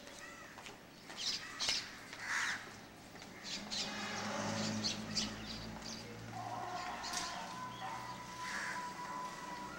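Short, separate bird calls in the first half. A steady low hum comes in about three and a half seconds in, and a held higher tone joins it past the middle.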